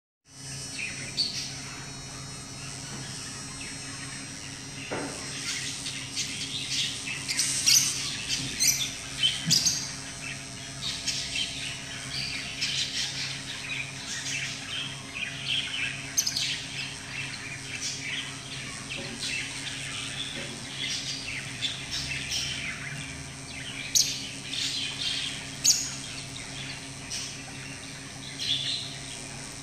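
Birds chirping and squawking in many short, irregular calls, with a few louder ones, over a steady low hum.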